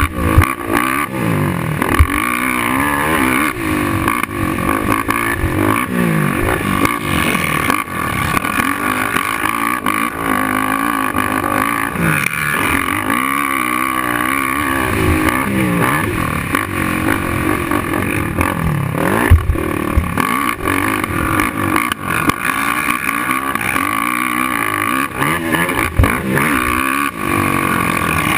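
Suzuki LTR450 quad's single-cylinder four-stroke engine revving up and down over and over on a motocross track. A few sharp knocks cut through, three of them standing out.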